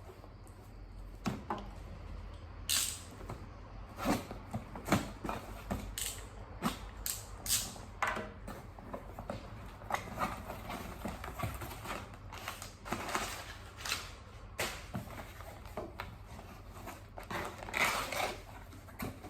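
Hands unboxing and handling a leather jump rope: irregular clicks, taps and short rustles of the packaging and rope.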